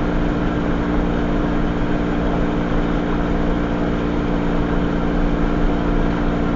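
Steady engine hum of an idling vehicle: a continuous low drone with a few steady tones, unchanging throughout.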